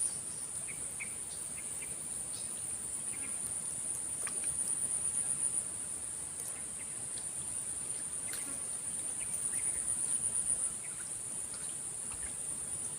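Insects calling steadily in a high-pitched continuous whine, swelling louder and dropping back twice.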